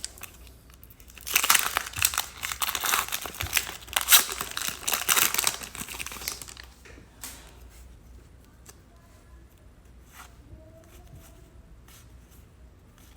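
Plastic-foil trading card pack wrapper being torn open and crinkled, a loud crackling stretch lasting about five seconds, followed by quiet handling with a few faint clicks.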